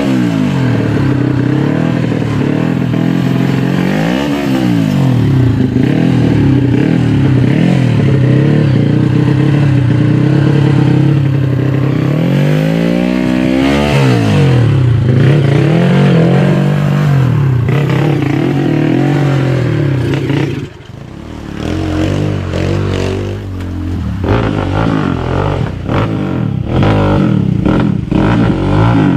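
Trail motorcycle engine held at high revs, its pitch swinging down and back up several times. About two-thirds of the way through it drops away briefly, then comes back in uneven blips with some clattering.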